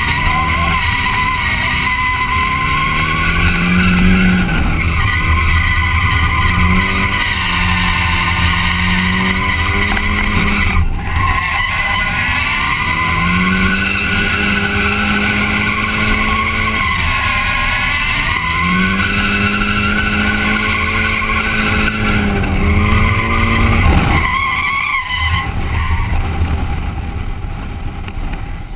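Nissan 240SX's turbocharged SR20DET engine revving hard while drifting, the pitch climbing and dropping again about every four to five seconds, with tyres squealing as the car slides. Heard from inside the cabin; the revs fall away near the end.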